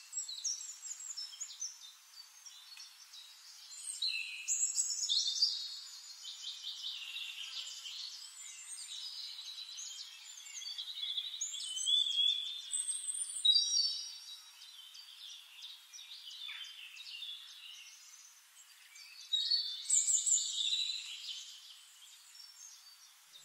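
Several birds singing and calling together: chirps, rapid trills and short sliding notes, with louder bursts about four, twelve and twenty seconds in. The sound is thin, with nothing low in it.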